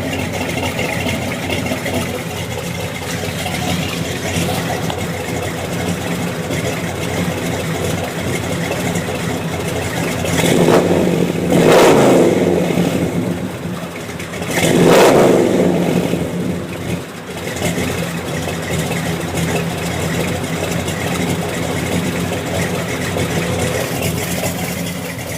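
A warmed-up 1969 Chevelle's small-block Chevy V8 idling through a Jegs 2.5-inch chambered exhaust, with a steady lumpy rumble. About halfway through, the throttle is blipped twice, a few seconds apart, and the exhaust note rises and falls back to idle each time.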